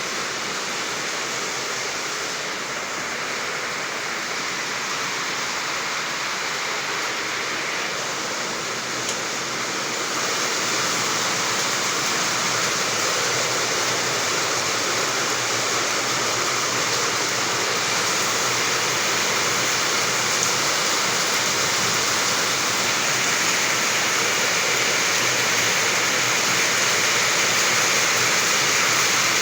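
Running water rushing steadily, a little louder from about ten seconds in.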